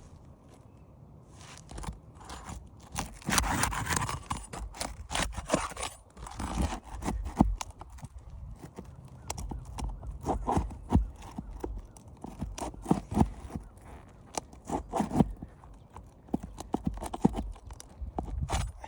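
Irregular knocks, taps and scraping on an asphalt shingle roof as a damaged shingle is worked loose and its nails pulled, with a longer stretch of scraping about three to seven seconds in.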